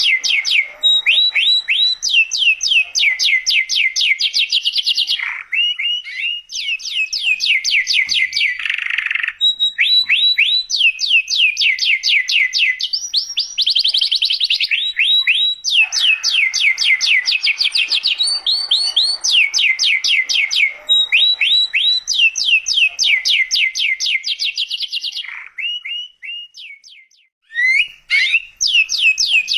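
Domestic canary singing continuously: long, rapid trills of repeated falling notes in phrases of a second or two. There is a brief drop in the song near the end.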